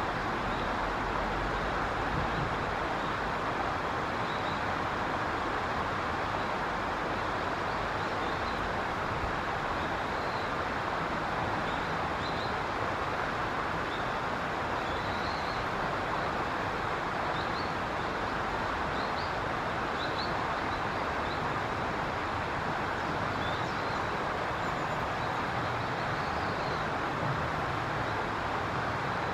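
Steady rushing background noise with faint, short, high bird chirps scattered through it.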